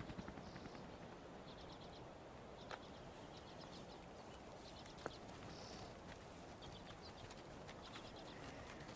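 Faint clicking from a caribou herd walking past, the clicking of their leg tendons with each step, heard as short runs of quick soft ticks and a couple of sharper single clicks over quiet open-air hiss.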